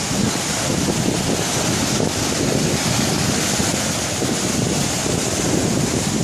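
Strong wind buffeting the microphone over a stormy sea, with waves surging in a steady, loud rush of noise.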